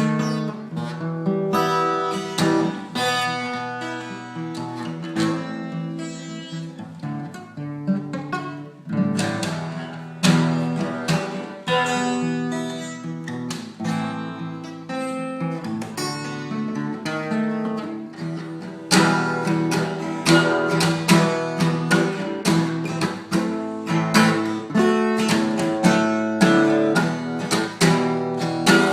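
Instrumental music led by acoustic guitar, plucked and strummed, growing fuller and louder about two-thirds of the way through.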